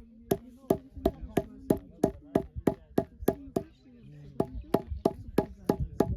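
Knife chopping food on a cutting board in steady, even strokes, about three a second, with a short break about two-thirds through before the chopping resumes.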